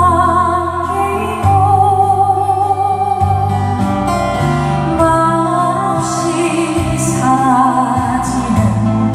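A woman singing to acoustic guitar accompaniment, holding long notes with vibrato.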